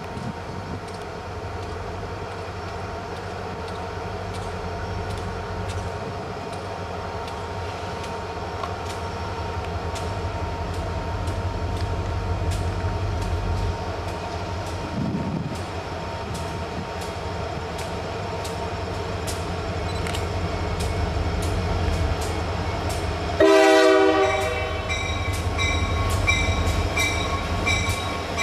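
Approaching diesel-hauled train, a low rumble that slowly grows louder, with faint regular clicks. About 23 seconds in, the locomotive sounds one short, loud horn blast, and a rapid, high repeating ringing starts just after it.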